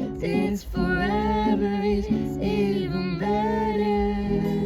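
A female voice singing a slow pop melody with long held notes over instrumental backing.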